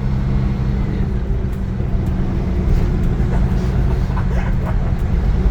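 Iveco Crossway LE 12 bus's Cursor 9 inline-six diesel engine running at a steady speed with a constant low drone, under the noise of the bus moving.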